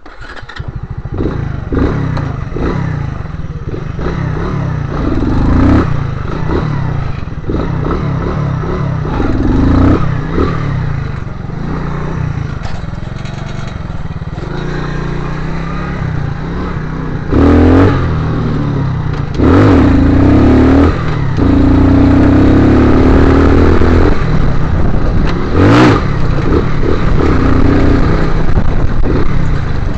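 Motorcycle engine running under way, the revs rising and falling, with several louder bursts of throttle in the second half.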